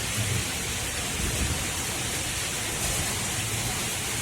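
Steady rushing noise of water, even and unbroken, with a low rumble underneath.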